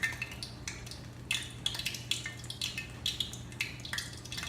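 Kitchen cooking sounds: irregular light clicks and crackles, with a steady low hum under them.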